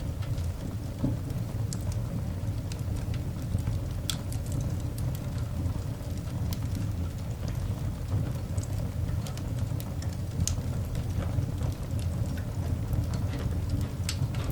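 Coal fire burning in a cast iron dog grate: scattered sharp crackles and pops over a steady low rumble.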